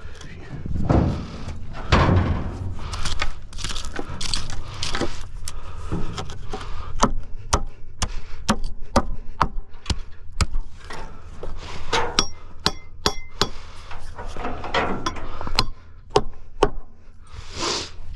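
Hammer striking nails into wooden 2x6 concrete form boards and stakes: many sharp knocks at an irregular pace, with a few ringing strikes a little past the middle, over a steady low hum.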